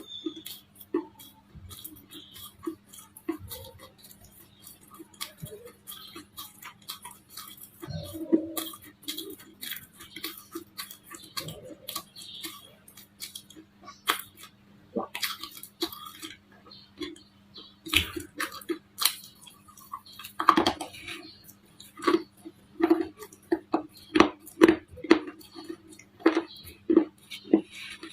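Baked clay bars cracking and crunching: a long run of sharp, dry snaps that come closer together and louder in the last several seconds, over a faint steady hum.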